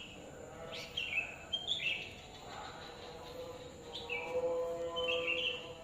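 A songbird repeats a short chirping phrase twice, a few seconds apart. Under it a distant voice holds long sung notes, heard through a steady outdoor background hiss.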